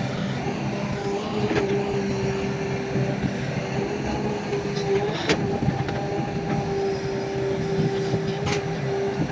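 Heavy earthmoving machinery's diesel engine running steadily with a constant hum, with three sharp metallic clanks spread through it.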